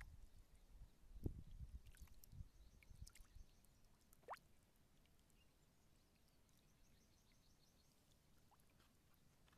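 Near silence: faint outdoor ambience. There are soft low bumps in the first few seconds, one short rising chirp about four seconds in, and faint rapid high-pitched chirring at times.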